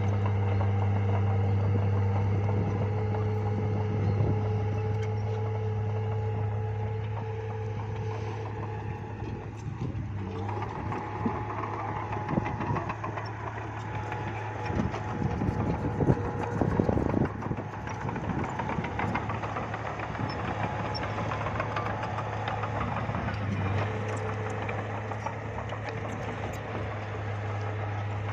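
Bulldozer's diesel engine running steadily under load. About ten seconds in comes a stretch of irregular clanking and knocking that lasts several seconds before the steady drone carries on.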